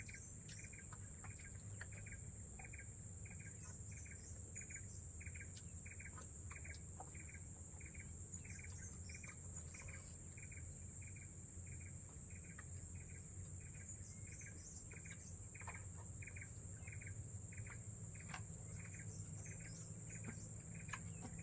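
Forest insect chorus: a steady high-pitched buzz with a pulsed call repeating evenly, a little under twice a second, and scattered short chirps.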